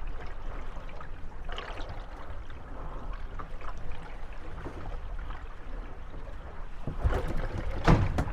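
Moored gondolas rocking on small waves: water lapping against the hulls over a steady low rumble, with wooden creaks and knocks as the boats bump together. A cluster of louder knocks comes near the end.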